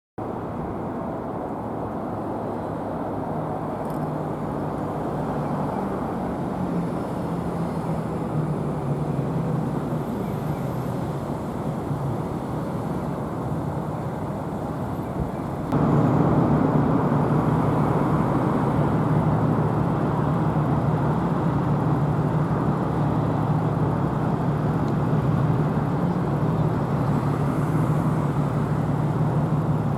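Road traffic noise: vehicle engines running with a steady low hum and tyre noise. It gets suddenly louder a little past halfway and then stays steady.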